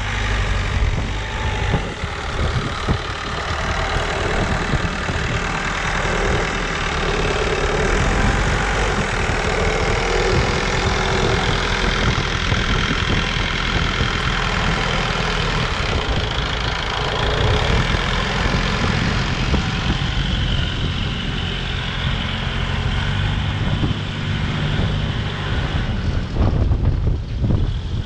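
Large farm tractor's engine running steadily.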